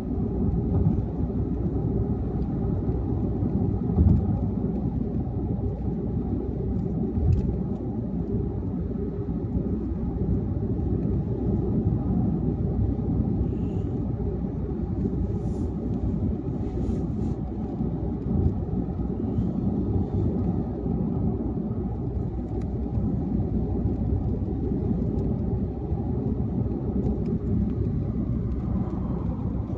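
Steady road and tyre rumble of a car driving at highway speed, with a few brief thumps.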